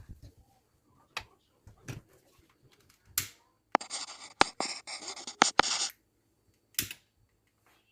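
Household handling sounds: scattered sharp clicks and knocks, then about two seconds of scraping, rustling noise with several sharp clicks in it, and one more click near the end.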